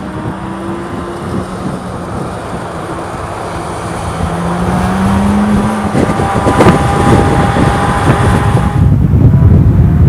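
Corvette Z06's naturally aspirated 5.5-litre LT6 flat-plane-crank V8 running under load, its note rising slightly and growing steadily louder into a heavier low rumble near the end, with some wind noise.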